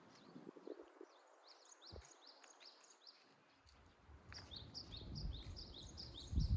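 Small birds chirping, many quick calls a second, over outdoor background noise. In the second half a low rumble builds up, with a thump near the end.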